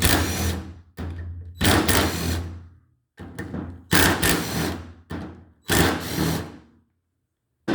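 Handheld power driver spinning out the 10 mm cam-cap bolts of a Subaru single-overhead-cam cylinder head, running in about four short bursts of one to two seconds each with brief pauses between them. A sharp knock comes near the end.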